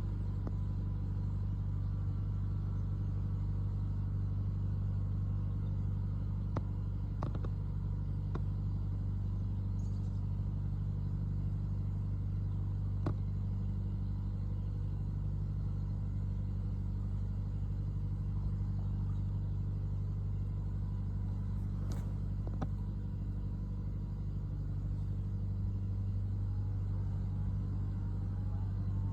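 Tractor engine running steadily, a low even drone with a strong hum, with a few faint clicks over it.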